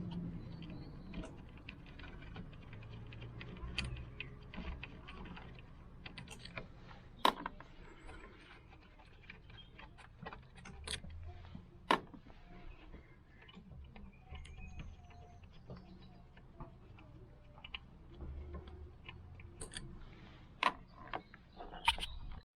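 Metal hand tools clicking and clinking in irregular clusters, with a few louder knocks, as the 10 mm screws holding a VW Golf Mk5 diesel's fuel filter housing are undone.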